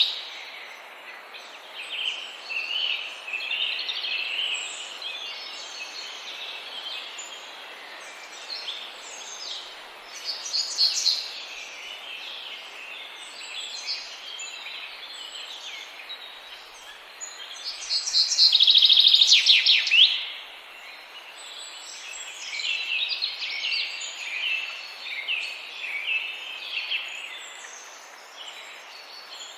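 Small birds chirping and calling over steady background noise, with a loud run of rapid repeated notes about two-thirds of the way through.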